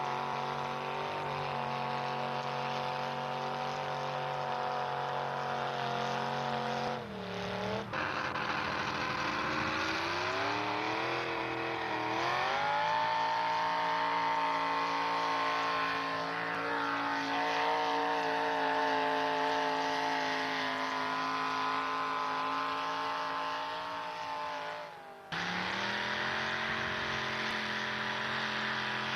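Pulling truck's engine running hard at high revs. About seven seconds in the revs sag and fall, then climb back over several seconds and hold steady. Near the end the sound breaks off abruptly and another engine running at high revs takes over.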